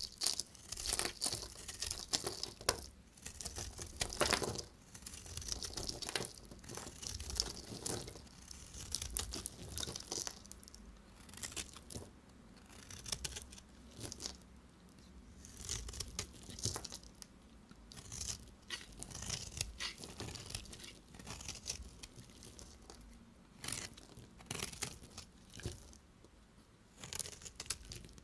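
A knife cutting through bars of soap: a run of short, crunchy, crackling strokes, one every second or two.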